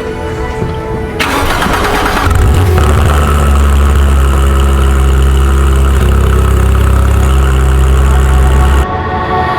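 Porsche 991 GT3's 4.0-litre flat-six being started: a short burst of cranking a little over a second in, then the engine catches and runs at a steady idle until it cuts off near the end.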